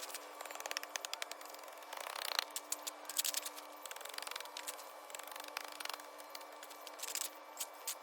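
Shovel chopping and scraping loose dirt, breaking it up finer: a quick, irregular run of small clicks and gritty scrapes.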